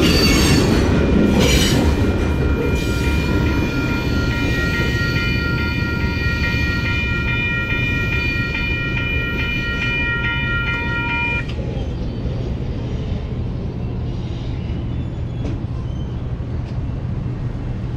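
Union Pacific train rolling by with a steady low rumble that slowly fades. A locomotive air horn sounds one long chord of several notes for about nine seconds and cuts off sharply.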